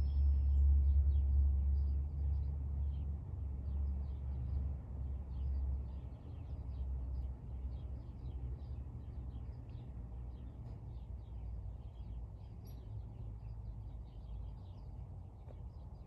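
Many short chirps from small birds, over a low rumble that is loudest in the first few seconds and then fades away.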